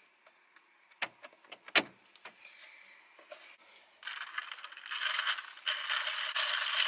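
Ice rattling in a cup as an iced chai drink is shaken to mix the chai that has settled at the bottom. A few knocks about a second in, then steady shaking from about four seconds in.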